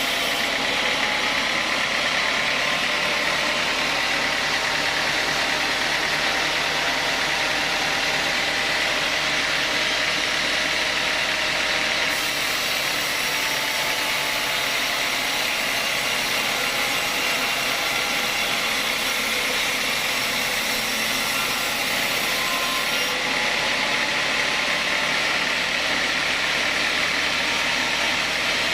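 Sawmill saw machinery running steadily, a constant loud mechanical noise with no breaks.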